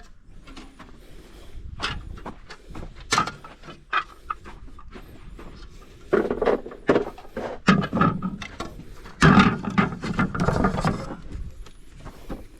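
Knocks, clicks and clatter of corn planter parts being handled, with a louder run of clattering from about halfway through to near the end.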